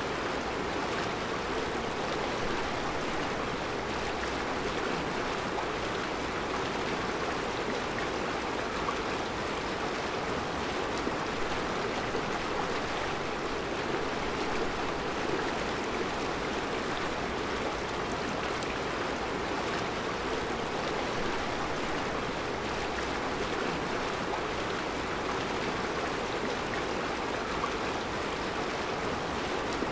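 Mountain river flowing over round rocks in a rocky bed: a steady, even rushing of water.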